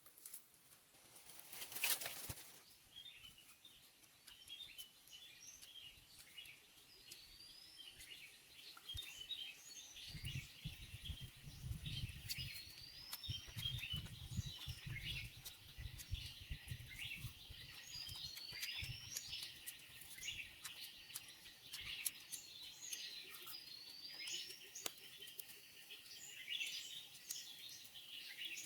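Birds calling in a chorus of short chirps, with a rising whistle repeated every few seconds. A brief loud rustle about two seconds in, and low rumbling thumps through the middle.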